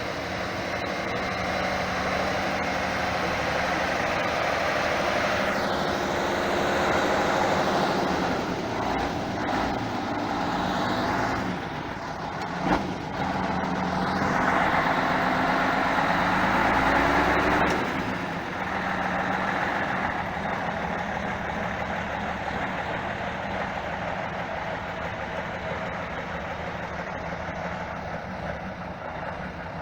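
Off-road trial truck's diesel engine revving and labouring, its pitch rising and falling, with a sharp knock near the middle. It then settles to a steadier, quieter run.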